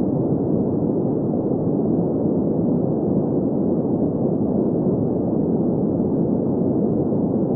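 Steady green noise: an even, unchanging hiss weighted toward the low-middle pitches, with little above the midrange.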